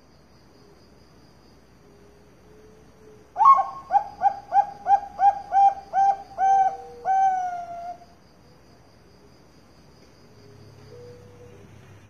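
Bangkok-strain zebra dove (perkutut) singing one song phrase about three seconds in: a string of about ten quick, evenly spaced cooing notes, ending in two longer drawn-out notes.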